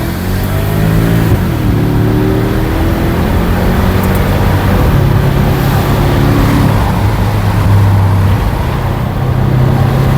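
Porsche Cayenne Turbo's twin-turbo V8 running with its muffler cut off, under way on the road. The engine note rises in pitch, drops sharply about a second in, then holds fairly steady.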